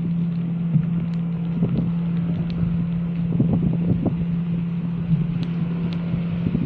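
Motorcycle engine running at a steady cruise, a constant low drone, under wind rush on the microphone with scattered small crackles.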